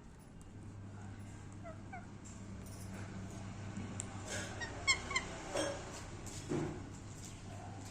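Indian ringneck parrot giving short pitched chirps: a faint pair about two seconds in and a louder pair about five seconds in, with a few more brief sounds after. A steady low hum runs underneath.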